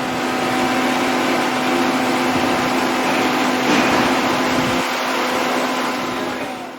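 Commercial spice grinder (pulverizer) running at full speed: a steady, loud rushing noise over a constant low hum, with a brief swell a little past the middle.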